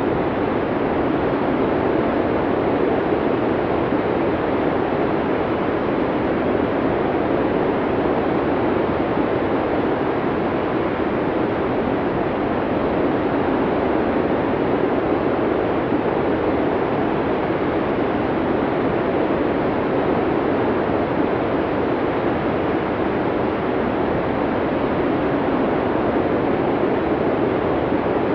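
Snowstorm wind blowing as a steady, even rush with no gusts or breaks.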